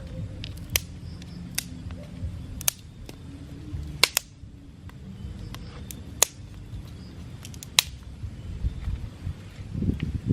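Sharp, irregular cracks or knocks, about seven or eight in ten seconds, two of them close together about four seconds in, over a steady low rumble.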